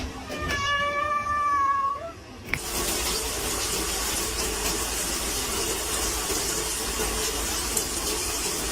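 A cat gives one long, drawn-out meow, held steady and rising slightly at the end. After it comes a steady rushing hiss, like running water, that lasts to the end.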